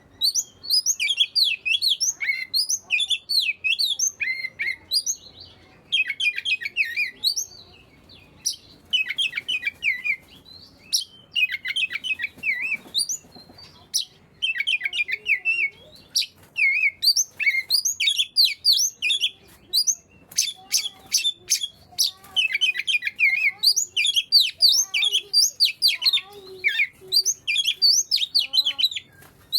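Oriental magpie-robin singing: rapid, varied phrases of chirps and whistles that come in bursts with short pauses, including a run of sharp clicking notes about two-thirds of the way in.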